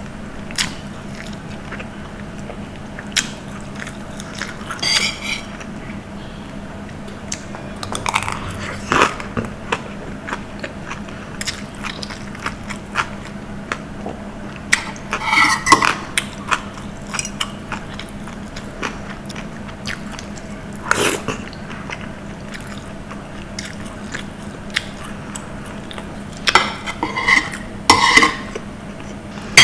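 Close-miked eating: bites and chewing, with scattered clicks of a spoon or fork against a food container. A faint low hum runs steadily underneath.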